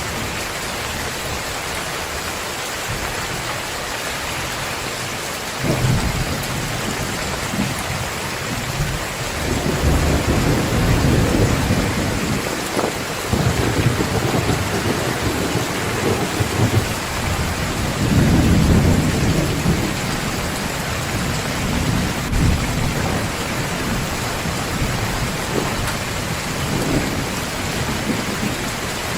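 Heavy rain falling steadily, with thunder: a sudden low clap about six seconds in, then long rolling rumbles through the middle, loudest about two-thirds of the way through.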